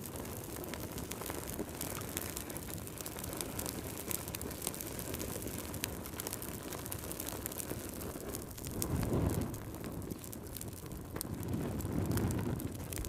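Wood fire crackling: a steady low rush of burning with many sharp pops and snaps, and two louder low surges of flame about nine and twelve seconds in.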